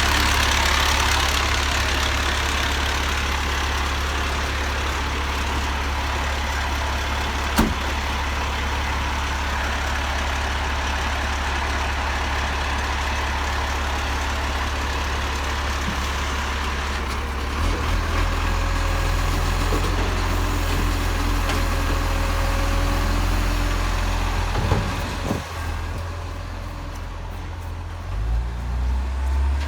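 Garbage truck's engine running with a steady low rumble. A single sharp knock comes about eight seconds in, and the engine note shifts about halfway through and again near the end.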